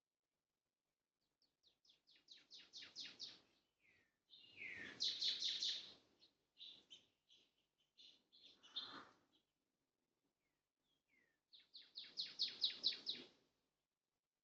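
Bird calling in four phrases of quickly repeated high chirps, about five notes a second, with short pauses between the phrases.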